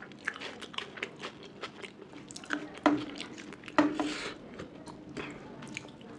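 Close-miked chewing and wet mouth sounds of a person eating, with two louder sharp clicks a little before and after the middle.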